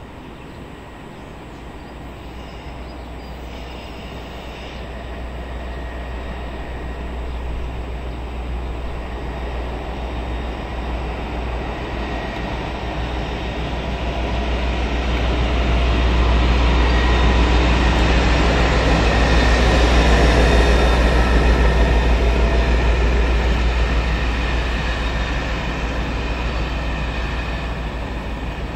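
A train approaching and passing, its rumble building steadily to a peak about two-thirds of the way in and then easing away.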